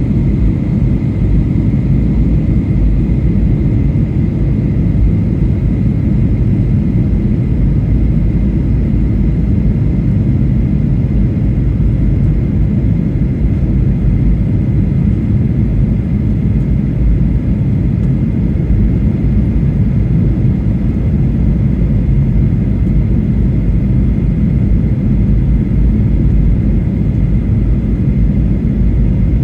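Steady cabin roar of a Boeing 737-800 in flight: the noise of its CFM56 turbofan engines and the airflow over the fuselage, with a faint steady whine above it.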